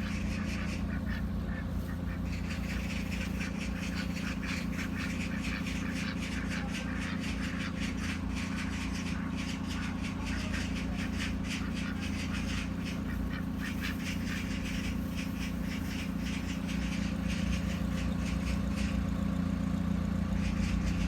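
A flock of ducks quacking continuously, many short calls overlapping, over a steady low hum.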